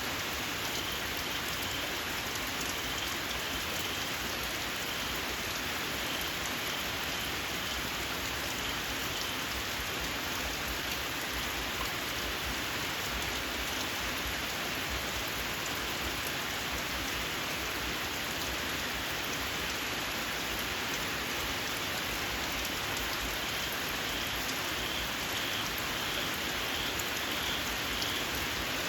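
Steady rain falling, with a small frog giving a string of short, shrill, evenly repeated calls at the start and again near the end.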